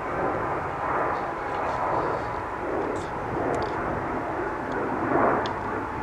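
Boeing 777 freighter's GE90 jet engines running at takeoff power, a steady rumbling roar that swells and eases.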